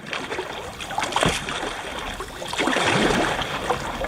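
Kayak paddle strokes splashing and dripping in river water, with a sharp splash about a second in and a longer swishing splash near the three-second mark.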